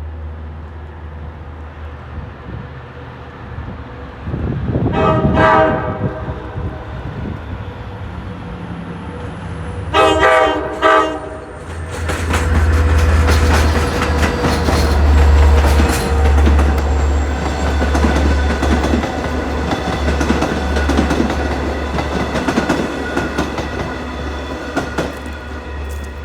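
A train sounds its horn twice, two chord blasts about five seconds apart, then passes close by with a loud, heavy low rumble and a dense rattle and clatter of wheels over the rails.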